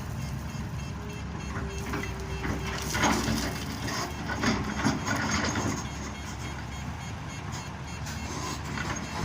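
Excavator and truck diesel engines running steadily, with a few knocks and scrapes, typical of rock being handled, about three to five seconds in.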